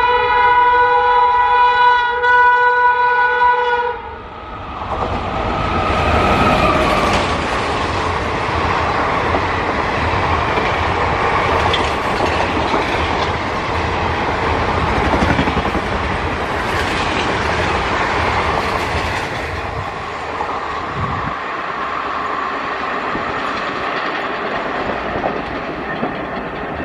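A WAP5 electric locomotive sounds its horn as one steady chord for about four seconds. Then comes the loud rushing clatter of a train of ICF passenger coaches passing at speed, wheels drumming over the rail joints. The clatter eases off somewhat after about twenty seconds as the train draws away.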